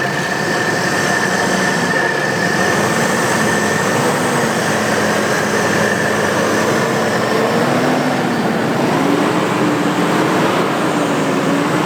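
Diesel 4x4 SUV engine running under load over a soft off-road trail, its pitch wandering slowly upward, over a steady loud rush of noise and a thin high whine.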